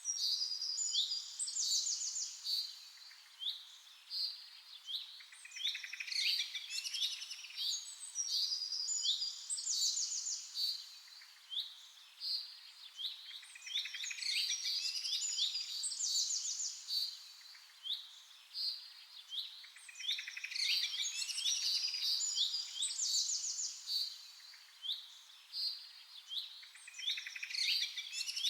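Several birds chirping and singing together, a dense chorus of short high chirps and rapid trills that thins out briefly every several seconds.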